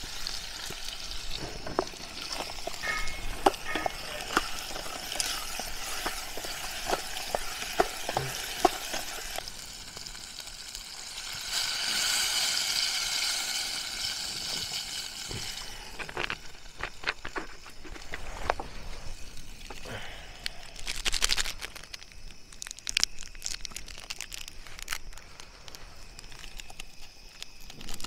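Noodles and an onion-tomato mix frying in a steel pot on a butane camp stove, with metal utensil clicks and knocks. About twelve seconds in, water is poured from a bottle into the hot pot for a few seconds. Plastic packet rustling and tearing near the end.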